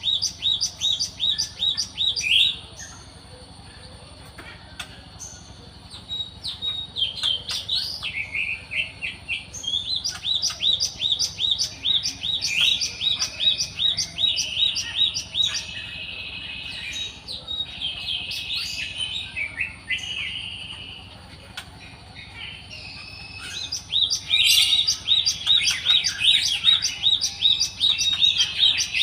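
A glatik (gelatik) songbird singing: fast runs of high, repeated chirping notes, about four or five a second, in bursts with short pauses between them.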